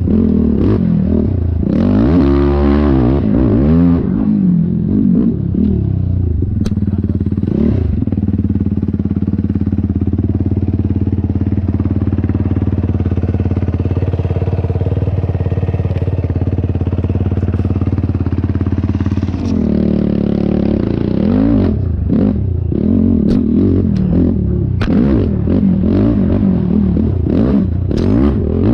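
Yamaha YFZ450R quad's single-cylinder four-stroke engine being ridden hard off-road, its pitch rising and falling with throttle and gear changes. About eight seconds in it holds a steady high rev for roughly ten seconds, then swings up and down quickly again with scattered knocks and clatter.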